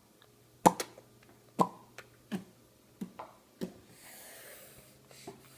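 A young child's mouth smacking while eating: about five sharp wet smacks, roughly two every one and a half seconds, followed by a soft breathy hiss.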